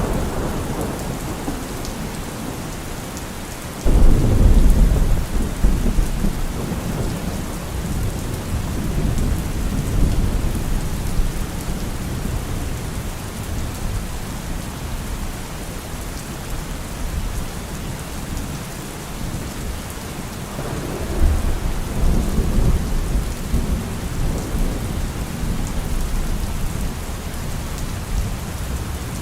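Heavy rain falling steadily on a car roof, with thunder: a sudden loud crack about four seconds in that rumbles on for several seconds, and another long low rumble about two-thirds of the way through.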